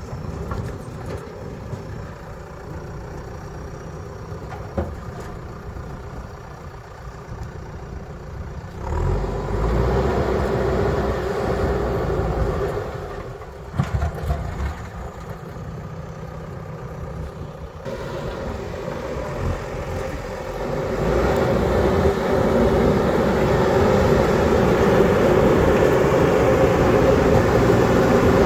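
JCB backhoe loader's diesel engine running, rising louder under load about a third of the way in and again for the last third, with a few sharp knocks near the middle.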